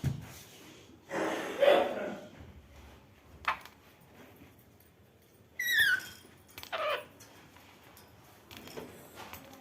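Parrot calling: a few short, separate squawks with pauses between them, one high call near the middle falling in pitch.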